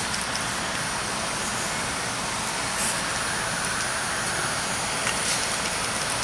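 Steady rushing hiss of background noise, with a couple of faint clicks about five seconds in.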